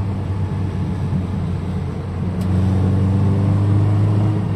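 Engine of an old Toyota Carina running as the car drives along. The note wavers from shortly after the start to about two seconds in, then runs steady again.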